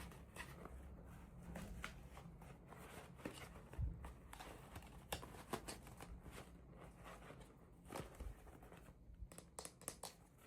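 Packaging being handled and opened by hand: soft crinkling and tearing with many small scattered clicks and taps, one stronger knock about four seconds in and a quick run of clicks near the end.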